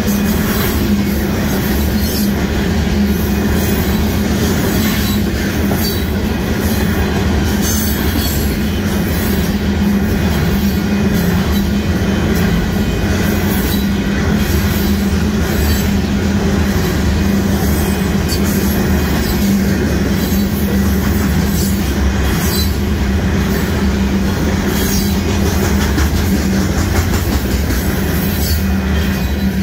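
Union Pacific freight train's cars rolling past at speed: a steady loud rumble of steel wheels on rail with scattered clicks as the wheels cross rail joints.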